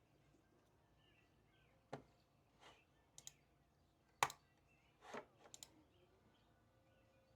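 A few light, scattered clicks and taps at a desk, about seven in all, coming irregularly in the middle few seconds, the sharpest one a little past four seconds in, over a quiet room.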